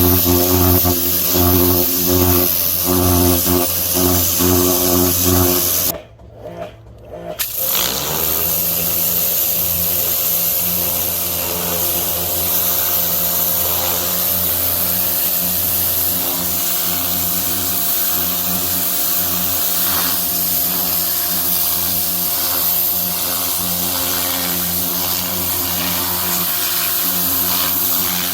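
Pressure washer running and spraying: a loud, steady motor hum with hiss. It stops for about a second and a half about six seconds in, then starts again and runs steadily.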